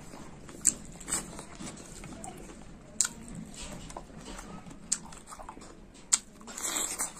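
A person chewing ripe mulberries with the mouth open, wet chewing and lip-smacking, broken by several sharp smacks.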